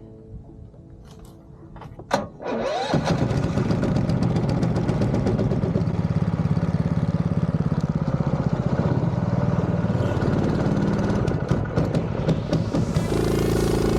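An engine cranked and started about two and a half seconds in, after a few faint clicks, then running with a fast, even beat and settling into a steadier idle near the end.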